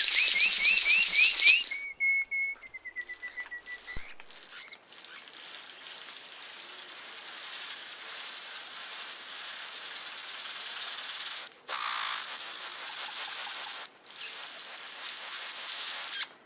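Bird calls: a loud, fast series of rising chirps, then a held whistle for about two seconds. After that comes a steady, hissing buzz that breaks off abruptly twice before stopping near the end.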